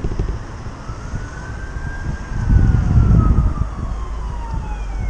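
Emergency-vehicle siren wailing in a slow rise and fall. About halfway through comes a loud, low vehicle rumble lasting about a second.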